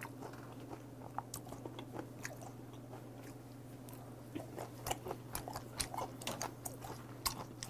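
A person chewing raw shrimp sashimi close to the microphone: scattered small mouth clicks and smacks, more frequent in the second half, over a low steady hum.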